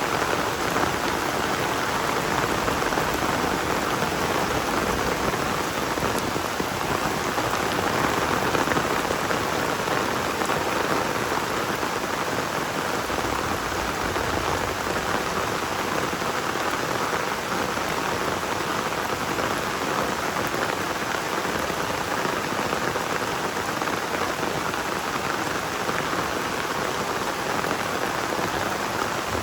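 Heavy rain pouring down, a steady, unbroken hiss of falling water with no let-up.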